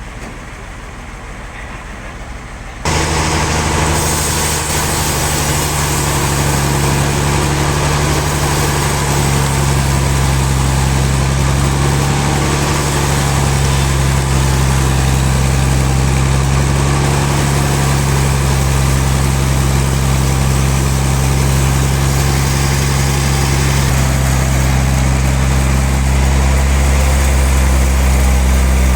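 Heavy engine-driven machinery running steadily with a deep drone and a broad whir on top. It starts abruptly and loudly about three seconds in, after a quieter low hum.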